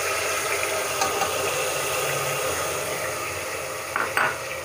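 Onion paste frying in hot oil in a pressure cooker, a steady sizzle that eases slowly as it is stirred with a spatula. There are two short knocks of the spatula against the pot near the end.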